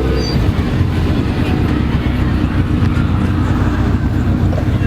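A car engine running steadily at idle, a low, even rumble.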